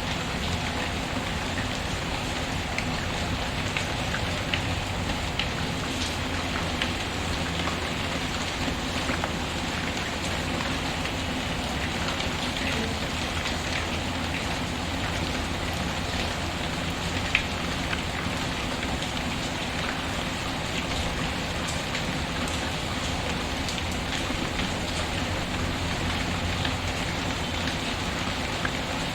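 Steady rain patter mixed with the scattered sharp crackles and pops of a wood fire in a fireplace, one louder pop about two-thirds of the way through.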